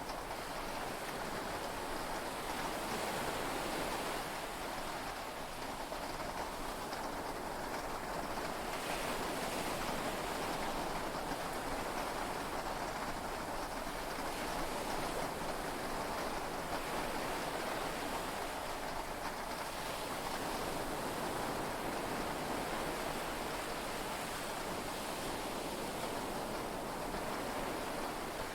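Steady rain and sea waves heard from inside a yacht's cabin: an even hiss that swells and eases only slightly, with no thunder.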